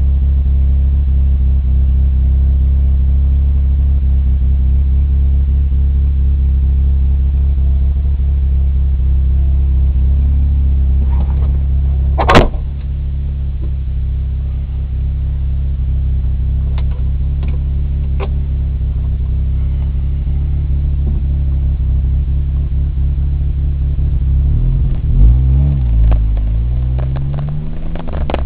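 Suzuki Samurai engine idling steadily after the vehicle was rolled over, with a single sharp knock about halfway through. Near the end the engine revs up and down as the vehicle pulls away.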